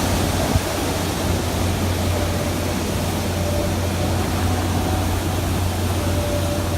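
Hurricane-force wind making a steady, unbroken rushing noise with an even low hum underneath.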